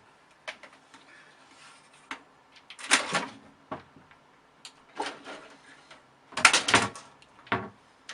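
Irregular knocks and rattles in several clusters, like a door or cupboard being knocked about, the loudest about six and a half seconds in.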